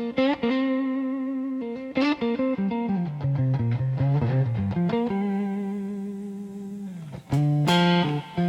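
Music: an instrumental intro on electric guitar with effects, notes sliding and held, one long note sustained for a couple of seconds in the middle.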